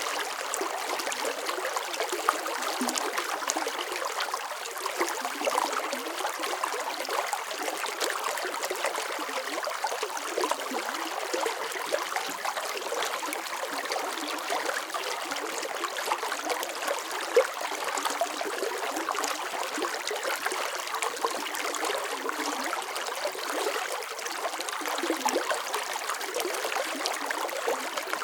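Running water flowing steadily, a close, even splashing and trickling with nothing deep or booming in it.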